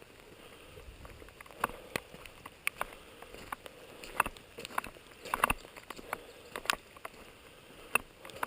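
Rain: scattered, irregular drops tapping close to the microphone over a faint steady hiss.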